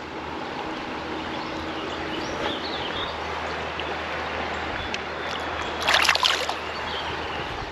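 Creek water flowing steadily, with a short louder burst of noise about six seconds in.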